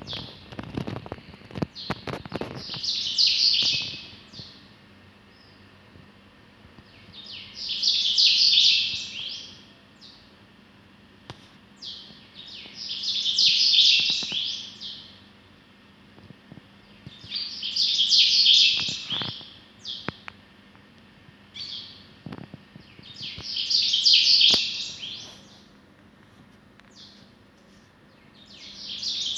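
A bird chirping in repeated bouts about every five seconds, each a rapid, high-pitched run of chirps lasting a second or two. There are a few low thumps in the first couple of seconds.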